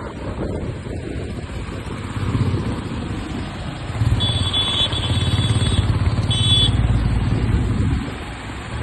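Motorcycle engine running on the move, with road and wind noise. It grows louder for about four seconds midway, and a high steady tone sounds twice during that louder stretch.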